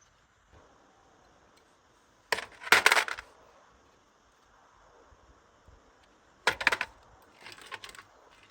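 Small metal pieces clinking and rattling against each other in three short clusters, the first about two seconds in and the loudest.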